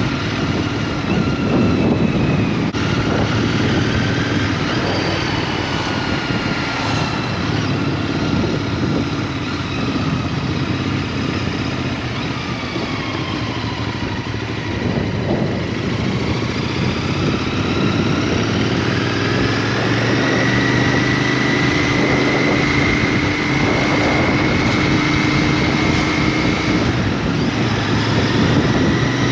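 Small motorbike engine running on the road, its pitch rising and falling slowly as it changes speed.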